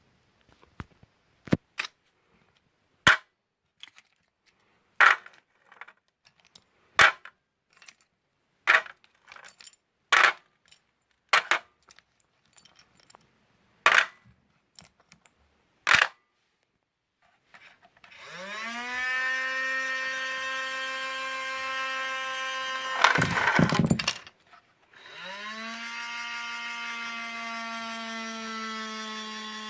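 A series of sharp plastic clicks, then a toy wheel loader's small electric motor and gearbox whining as it spins up and runs steadily. A loud clatter breaks in partway through, and the motor stops and starts again.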